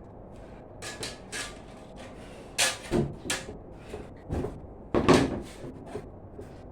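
Irregular knocks and clatters of kitchen repair work, about half a dozen, the loudest about two and a half and five seconds in.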